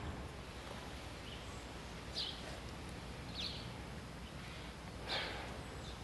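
Quiet woodland ambience with a few short, falling bird chirps about two, three and five seconds in, the one near five seconds the loudest.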